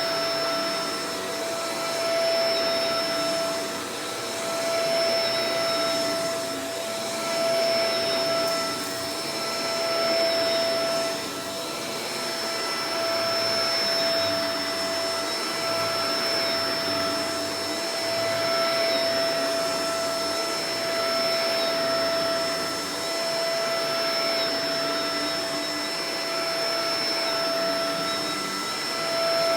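Shark Professional Powered Lift-Away DLX (NV586) vacuum cleaner running: a steady whine over the rush of air, the sound swelling and easing every two to three seconds.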